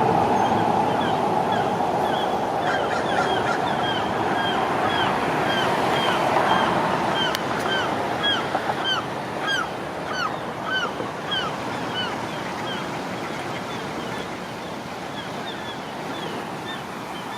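Flowing river water making a steady rushing noise, with a bird calling over it in a long series of short, falling notes at about two a second.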